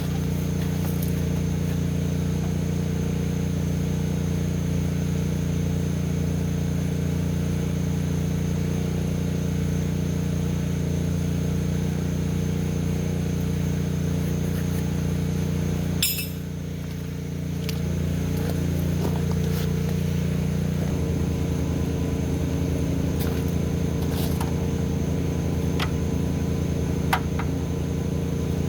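An engine running steadily, with a few light metal clinks. About halfway through there is a sharp click and the level briefly dips, then the engine note comes back slightly rougher and pulsing.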